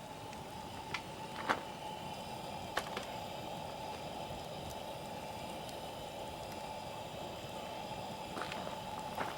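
Wood campfire burning: a steady hiss of flame with a few sharp crackles and pops scattered through it.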